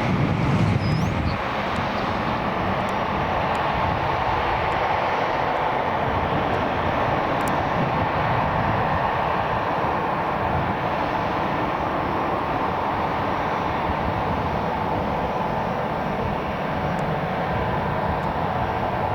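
Jet airliner engines running: a steady rushing noise with a whine that becomes plainer about halfway through.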